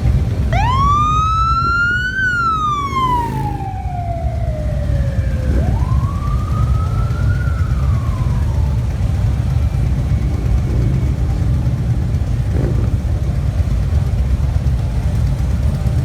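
A siren sounds two wails, each rising quickly and then falling slowly: the first begins about half a second in and the second about halfway through. Under them runs the steady low rumble of parade motorcycles' engines.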